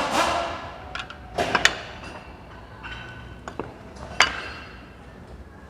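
Metal workshop parts being handled: a short rushing noise at the start, then a few sharp metallic clinks and knocks with a brief ring, the loudest a little after four seconds in.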